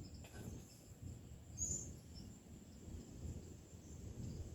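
Outdoor ambience: a steady high-pitched insect drone, with a short bird chirp about a second and a half in, over a low rumble.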